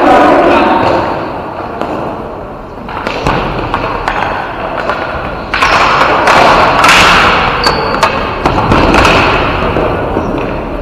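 Ball hockey game play: repeated thuds and taps of sticks and ball against the rink boards and floor, over a noisy arena background that grows louder about halfway through.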